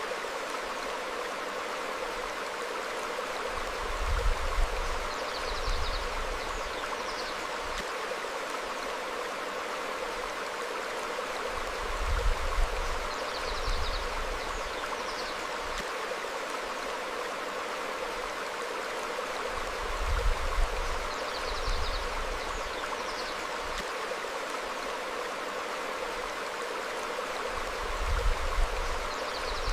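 Stream flowing over rocks, a steady rush of water, with faint short bird chirps every few seconds. A low rumble swells about every eight seconds.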